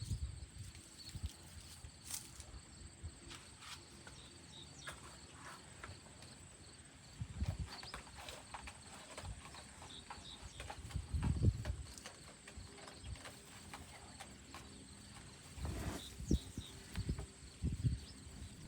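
Irregular dull thumps and rustling of potting soil being dug through by hand while harvesting potatoes from a grow bag. The heaviest clusters of thumps come about halfway through and again near the end.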